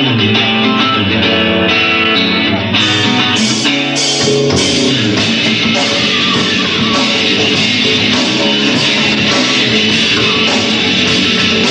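Live rock band playing an instrumental passage: an electric guitar riff, joined by the drums and full band about three seconds in.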